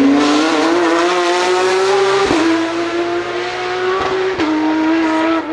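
Porsche sports car accelerating hard, its engine note rising steadily, with quick gear upshifts about two seconds in and again about four seconds in, each a sudden brief drop in pitch.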